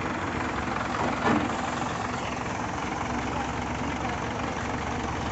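Heavy diesel engine idling steadily, with a brief louder sound about a second in.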